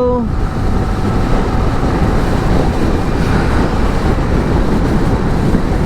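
Wind rushing over the microphone and road noise from a KTM Duke 390 single-cylinder motorcycle at riding speed; a steady engine note fades out just after the start, leaving mostly the wind rush.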